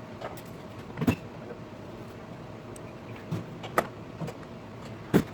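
Knocks and clicks of grill parts being handled during assembly, sped up fourfold: three sharp knocks, about a second in, near four seconds and near the end, with smaller clicks between, over a steady hiss.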